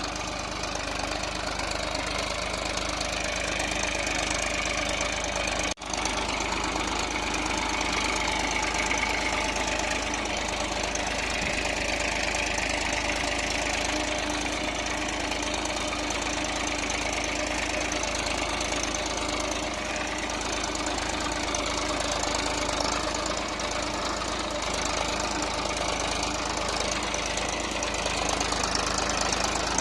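Massey Ferguson 241 DI tractor's diesel engine running steadily, pulling a five-tine cultivator through deep mud. The sound drops out for an instant about six seconds in.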